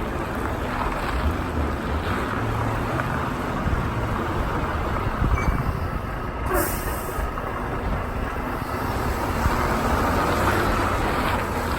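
Semi truck's diesel engine running at low speed with a steady rumble, and a short hiss of air from the air brakes a little past halfway.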